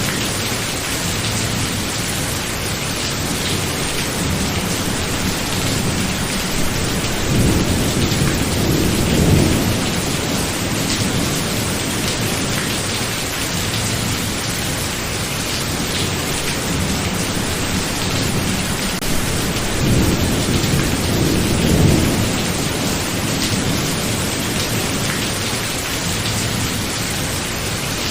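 Steady heavy rain in a thunderstorm, with low thunder rumbling up twice: once about a third of the way through and again past two thirds.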